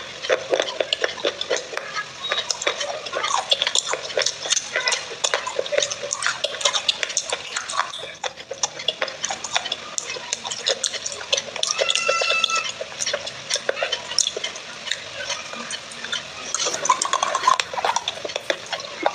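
Close-miked eating of water-soaked clay pot pieces: crunching and chewing heard as a dense run of small clicks and crackles, with a short high tone about twelve seconds in.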